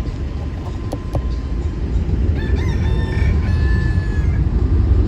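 A rooster crowing once, one call of about two seconds in the middle, over a steady low rumble.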